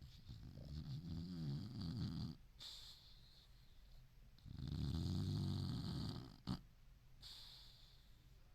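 Senior boxer dog snoring in deep sleep: two long snores, each about two seconds, with a short click just after the second.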